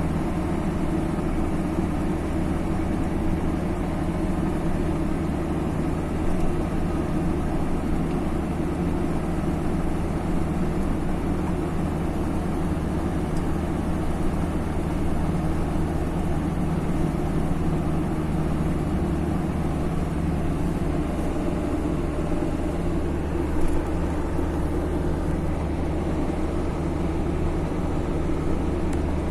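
Car on the move: steady engine and road noise.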